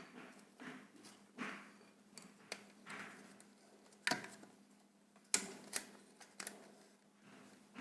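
Light, irregular clicks and taps of multimeter test probes and wire leads being handled against an electric motor's winding leads during a continuity test, about eight faint knocks spread over several seconds.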